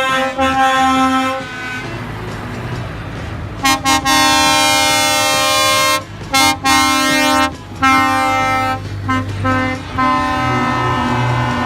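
Truck air horns sounding in a series of blasts: a long one at the start, another from about three and a half seconds in, then several short toots and further blasts. A lower-pitched horn begins near the end.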